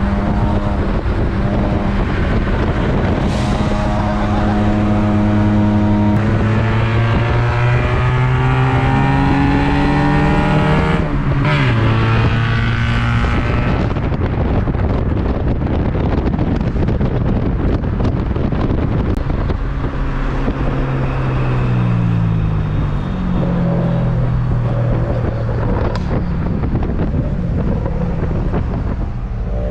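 Honda Civic four-cylinder engine under hard acceleration. The revs climb for several seconds, drop sharply at a gear change about eleven seconds in, then climb again in steps later on.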